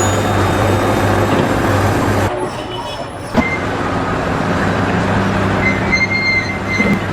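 Steady engine or machinery noise with a low hum. It drops away briefly a little over two seconds in and comes back with a sharp click.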